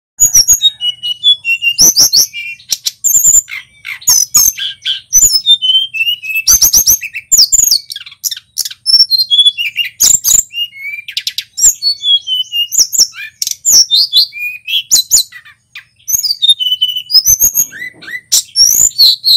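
Male tledekan gunung singing loudly, a fast, varied run of high chirps, trills and sliding whistled notes with only brief pauses.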